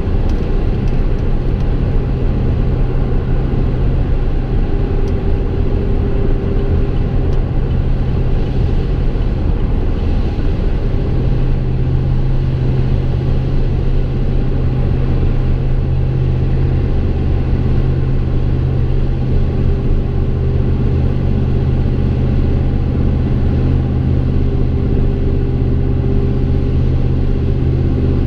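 A 2015 Chevy Silverado's 5.3-litre V8 heard from inside the cab while driving, its exhaust running through long-tube headers and a Gibson MWA muffler with no resonator. It holds a steady, even low drone, with the engine note shifting slightly near the start and near the end.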